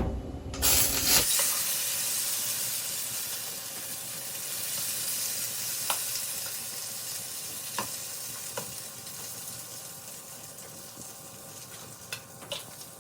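Shredded-potato hashbrown batter sizzling on a hot waffle maker's plates. A steady hiss starts about a second in and slowly fades, with a few faint pops.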